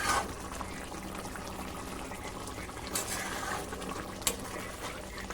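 Chicken frying in a pan on the stove, a steady sizzle, with a spatula clicking against the pan three times.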